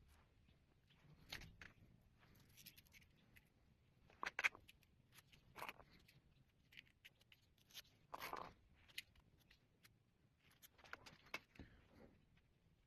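Faint, scattered clicks, scrapes and rustles of things being handled, with louder scrapes about four seconds in and about eight seconds in.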